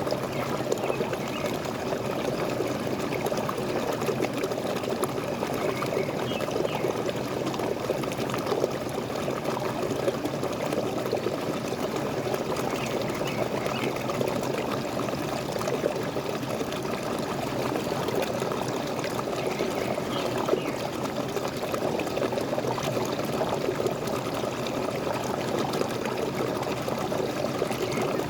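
Steady, unbroken rush of water falling and splashing from a waterfall.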